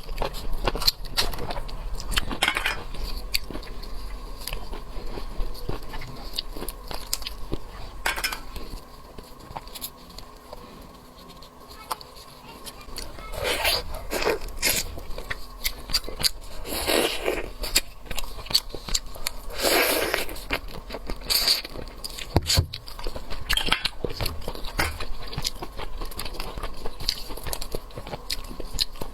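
Close-miked eating of oysters in sauce: wet chewing with many small clicks, crackles and scrapes, and a few longer wet slurping sounds in the middle.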